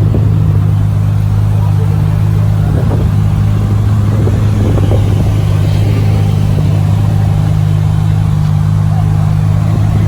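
A car engine idling close by, a steady low rumble that holds the same pitch throughout, with faint voices in the background.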